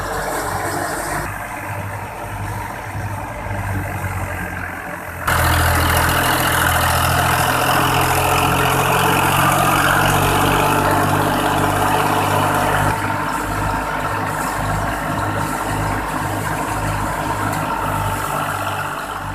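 New Holland 480 tractor engine running steadily under load while driving a thresher, with the thresher's drum and fans adding a broad mechanical rush. The sound jumps suddenly louder about five seconds in and eases a little after about thirteen seconds.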